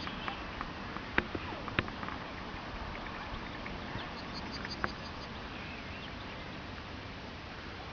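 Faint, high, thin calls of a small songbird over a steady outdoor hiss, with a few sharp clicks, the loudest about a second in, just under two seconds in and near five seconds in.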